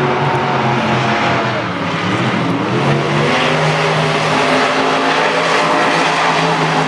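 Monster truck supercharged V8 engines at full throttle during a side-by-side race, the pitch rising and falling as they rev.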